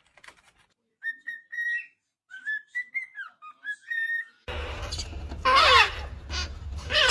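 Parrot whistling a run of short notes, some held and some gliding up or down, then from about halfway loud harsh squawks falling in pitch, twice, over a steady low hum.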